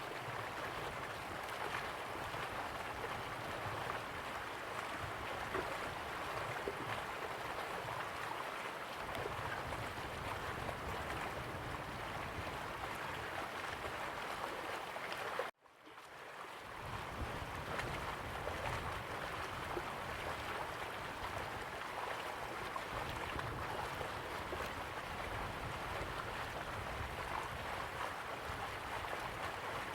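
River water flowing steadily, an even rushing wash. About halfway through it cuts out abruptly for a moment and fades back in over a second, like an edit splice in the recording.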